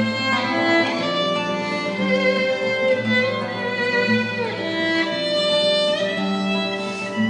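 A string ensemble playing sustained bowed notes, violins leading, with a downward sliding figure about halfway through.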